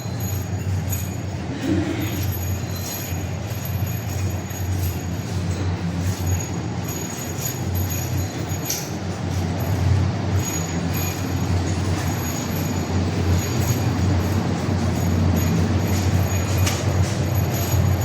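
Steady low rumble of a vehicle in motion, with light rattling and jingling on top.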